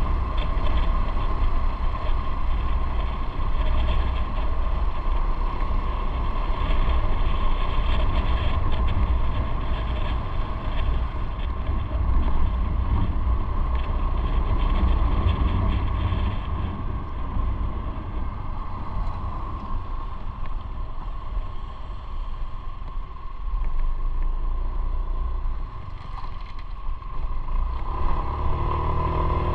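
Motorcycle being ridden: its engine running under a heavy low rumble of wind and road noise on the microphone, with the engine note standing out more clearly near the end.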